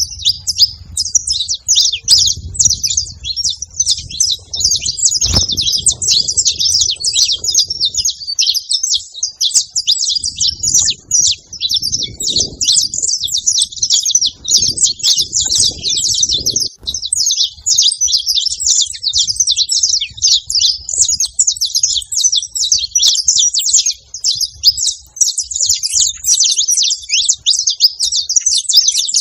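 Saffron finch singing close by: a continuous, fast run of high chirps with no break.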